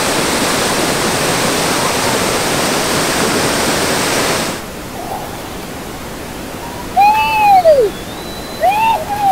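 Rere Falls waterfall pouring, a loud, even rush of falling water that drops to a quieter water noise about four and a half seconds in. Near the end a person under the falling water gives two loud yells, each rising and then falling in pitch.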